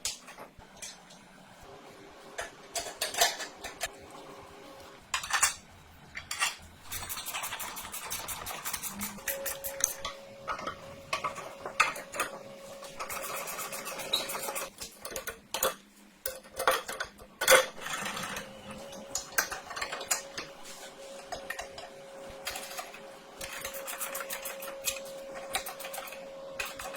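Metal parts and hand tools clinking and knocking in irregular clicks during go-kart restoration work. A steady faint hum runs underneath from about a third of the way in.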